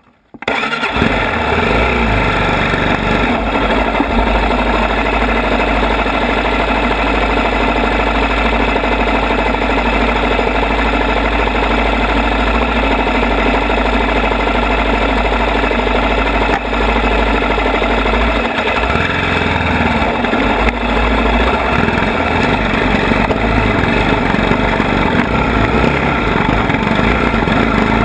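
ATV engine running loud and steady, starting abruptly about half a second in.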